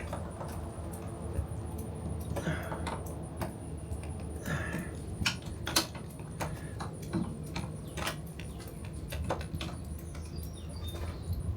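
Scattered light clicks and clinks of hand tools and a metal drain fitting being worked, with a few short squeaks, over a steady low background hum.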